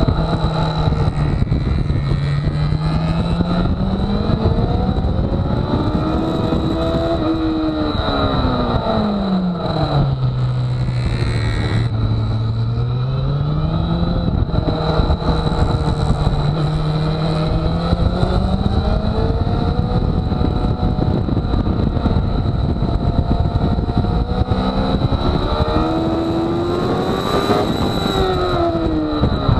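Motorcycle engine heard from on board at track speed, its revs climbing and dropping several times as the rider accelerates out of corners and brakes and shifts down into them. A thin, steady high whine runs underneath.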